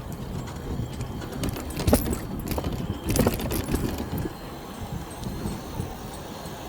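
A bicycle clattering and rattling over bumps, with a few sharp knocks about two and three seconds in, over a steady low rumble of wind and road noise.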